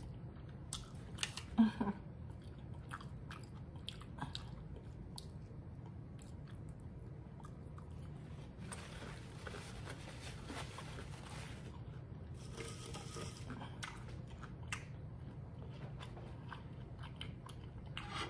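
A person chewing and biting fried Chinese takeout food close to the microphone, with scattered short crunches and mouth clicks over a steady low hum.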